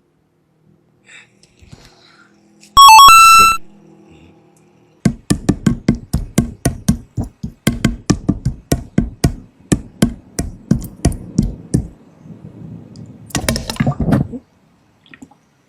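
A short, loud electronic jingle of a few pitched tones, then a run of sharp knocks at about three a second for several seconds, ending in a brief noisy burst.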